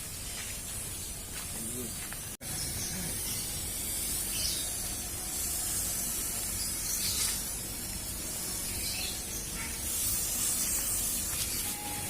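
Mosquito fogging machine running with a steady hissing spray, briefly cut off for an instant about two and a half seconds in.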